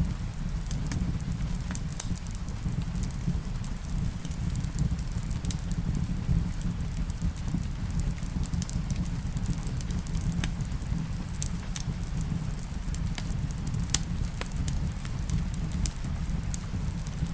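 Wood fire in a fireplace crackling, with irregular sharp pops, the loudest about 14 seconds in, over a steady low rumble. Rain runs in the background.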